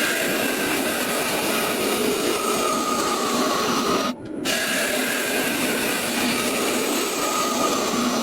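Wood lathe running, with a turning tool cutting the spinning wood: a steady hissing scrape over a faint motor whine. It breaks off for a moment about four seconds in.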